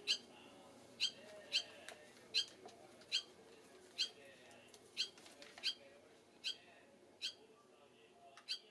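A barn swallow giving short, sharp, high calls, about a dozen of them at roughly one a second, spacing out a little towards the end.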